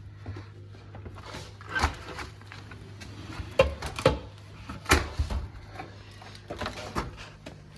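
Irregular knocks and clunks, about half a dozen spread over several seconds, with a steady low hum underneath.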